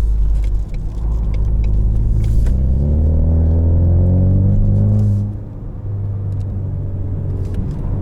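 2020 Ford Mustang EcoBoost's turbocharged 2.3-litre four-cylinder, through its active valved performance exhaust, accelerating with a rising note from about three seconds in. Its level dips briefly just after five seconds, then it runs on steadily.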